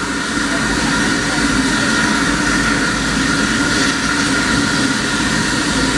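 Steam-hauled heritage train running with a steady rumble and hiss, heard from aboard.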